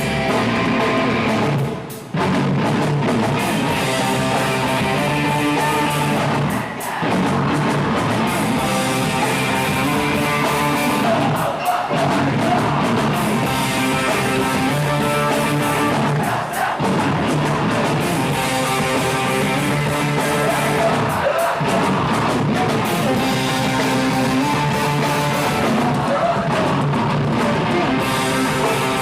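A live rock band plays loudly, with electric guitars, drums and singing. The sound briefly drops out a few times, as at breaks in the song.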